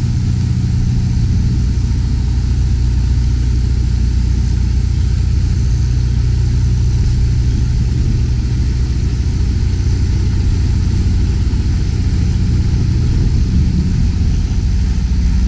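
Semi-tractor's diesel engine running steadily at low revs while the rig slowly backs a trailer, a constant low hum with no change in speed.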